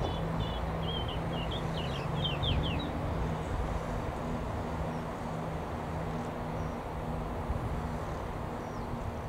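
Steady low rumble and hum of a train moving slowly through a railway station. Over the first three seconds a small bird chirps a quick run of short high notes.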